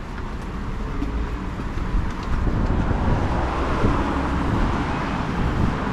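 Road traffic noise: a vehicle passing on the street, its tyre and engine noise swelling from about halfway through, over a steady low rumble.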